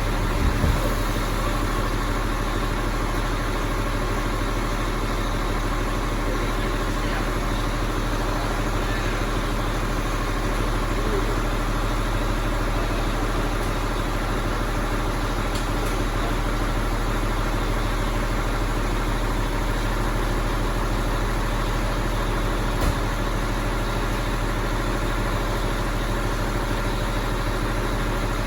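Mack Cruiseliner cabover truck's diesel engine idling steadily, with no change in revs. A short knock about 23 seconds in.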